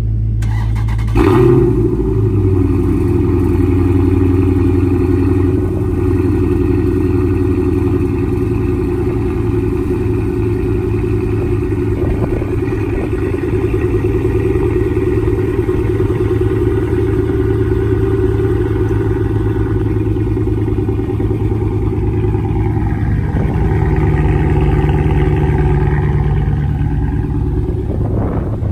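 Dodge Charger Daytona's Hemi V8 cold start: it fires up about a second in with a loud flare, then settles into a steady idle.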